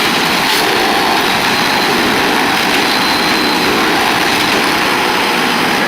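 Small engine-driven machine running steadily and loudly, with a dense noisy sound; it cuts off abruptly at the end.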